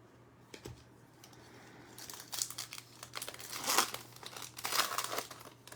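Trading-card pack wrapper being torn open and crinkled by hand, in a run of crinkling bursts starting about two seconds in.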